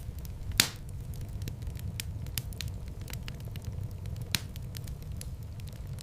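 Wood fire burning in a fireplace: a steady low rumble of flames with scattered light crackles, and two sharp pops, one about half a second in and another about four seconds in.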